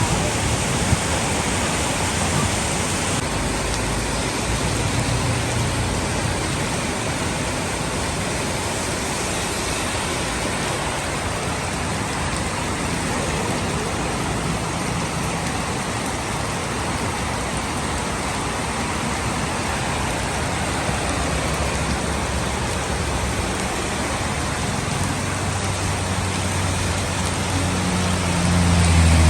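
Heavy rain pouring steadily in a dense, even hiss. A low hum builds up near the end.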